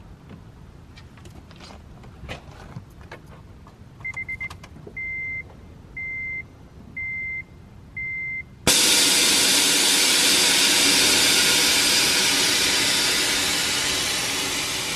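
A few short electronic beeps, then the Honda Civic Si's engine starts abruptly and runs loud and steady, its level slowly easing off over the following seconds as the idle settles.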